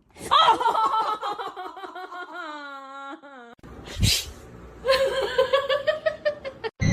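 A person laughing in two long bouts, with a short noisy burst between them about four seconds in.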